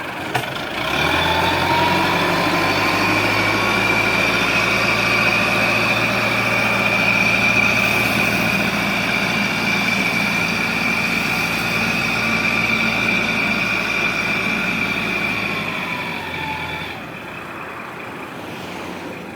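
Heavy diesel engine held at high revs, with a steady high-pitched whine over it, then dropping back to a lower, quieter run about seventeen seconds in.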